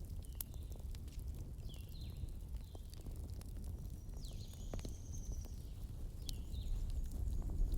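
Campfire burning, with a steady low rumble and frequent irregular sharp crackles and pops of the wood. Short high chirps sliding downward recur over it, with one longer high note about halfway through.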